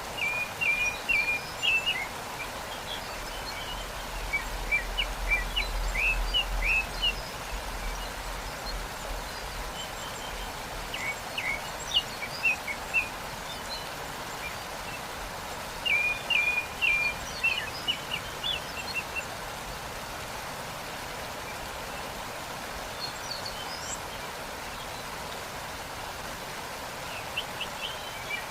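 A waterfall's steady rushing noise, with songbirds chirping over it in short bursts of rapid notes every few seconds.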